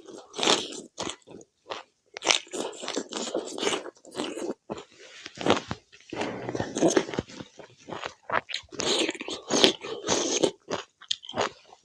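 A person eating pork curry and rice close to the microphone: chewing and crunching in quick, irregular bites, full of sharp little clicks.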